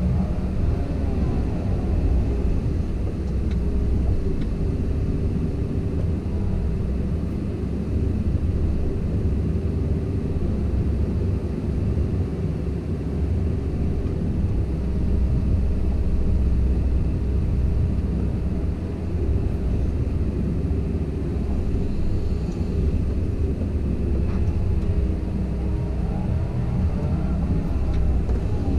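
A Komatsu PC170LC-10 excavator's diesel engine runs steadily with a low drone while its hydraulics work. The engine note glides up and down briefly near the start and again near the end.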